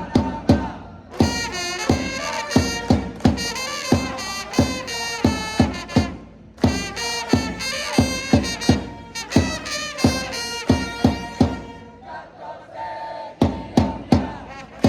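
A Japanese baseball cheering section's trumpets and drums playing a player's cheer song, the drums striking about twice a second under the trumpet melody, with fans singing along.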